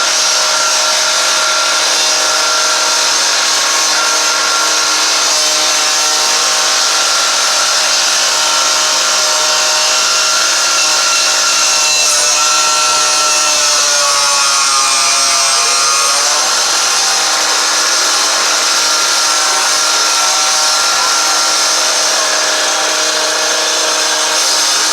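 A motor running steadily with a loud hiss over it; its pitch sags and comes back up about halfway through.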